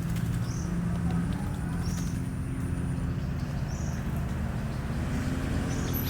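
A steady low motor-like hum, with short faint high bird chirps repeating about every second and a half.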